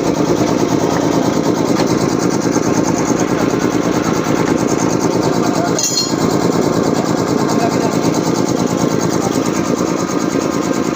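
5 hp reciprocating piston air compressor running steadily, with a rapid even pulsing from its piston strokes. A brief sharp sound cuts in about six seconds in.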